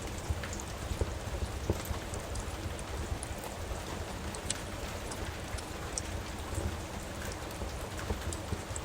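Steady rain with a low rumble, dotted with small sharp pops and crackles from a wood fire in a fireplace.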